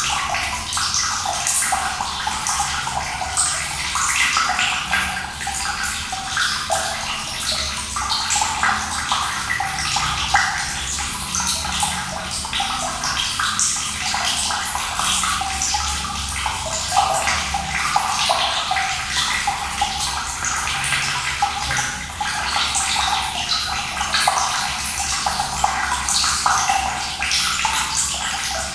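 Cold water running and splashing in a steady, unbroken flow, bright and splashy with little low rumble.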